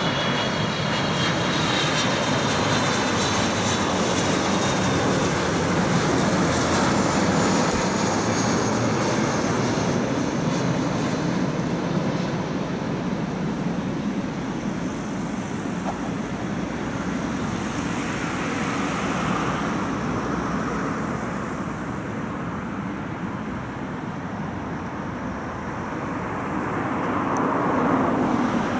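Jet engines of an Airbus A330-200 airliner running steadily as it lands, with a high whine that falls in pitch over the first few seconds and a swell in loudness near the end.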